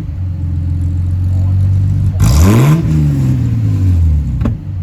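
Ford AU Falcon's 4.0-litre inline-six idling through a custom muffler and side-exit exhaust. A little over two seconds in, it gets one quick blip of the throttle that rises and falls back with a loud exhaust blast, and there is a sharp pop near the end.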